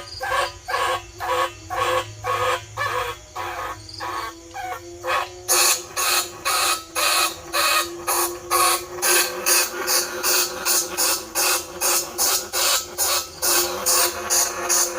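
Bandicoot rat squeaks played as a lure call: a fast string of short, shrill squeaks, about two a second, turning quicker and louder, about three a second, around a third of the way in, over a steady low tone.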